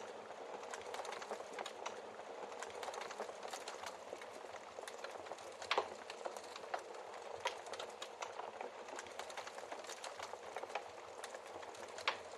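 Wood fire crackling steadily, with many small snaps and a few louder pops, the loudest about six seconds in and another near the end.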